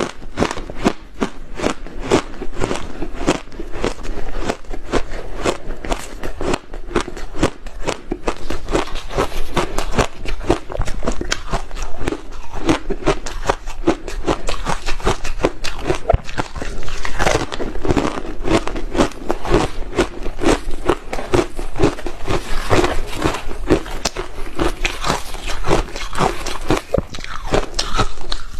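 A person biting and chewing hard ice close to the microphone: a dense, rapid string of sharp crunches and cracks, several a second, without a pause.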